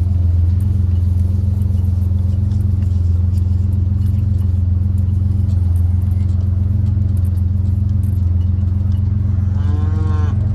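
Pickup truck engine running steadily with a low, even drone, and a cow mooing once near the end.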